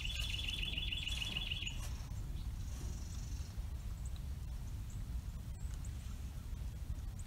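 A songbird's fast trill of evenly repeated notes for about two seconds, then a few faint high chirps, over a steady low rumble.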